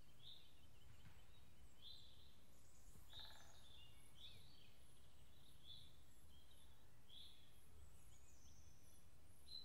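Faint birdsong: short calls repeating roughly once a second, with thinner, higher chirps joining in, over a low steady background rumble.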